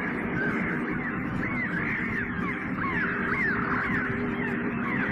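Cartoon soundtrack of many crow-like bird calls, short arched caws overlapping one another, over a steady low drone.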